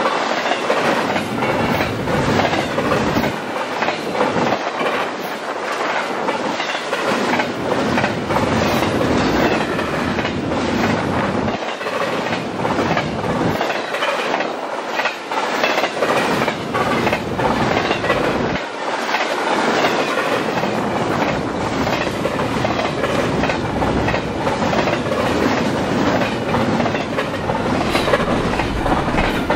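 Double-stack intermodal freight train's well cars passing close by at speed: steel wheels clattering continuously over the rail joints in a fast, uneven run of clicks over steady running noise.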